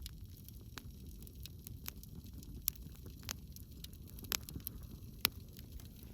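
Wood fire crackling: irregular sharp pops and snaps from burning logs, a few louder ones about halfway through and near the end, over a low steady rumble of the flames.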